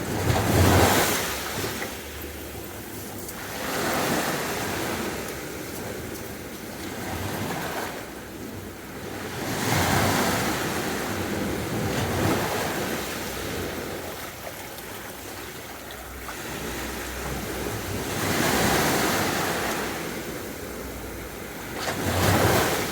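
Sea waves breaking on a beach, each wave swelling to a rushing crash and washing back, several seconds apart, with some wind on the microphone.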